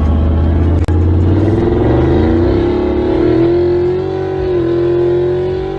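A car engine running with a deep rumble, then revving up about two seconds in and holding at high revs. A single sharp click comes about a second in.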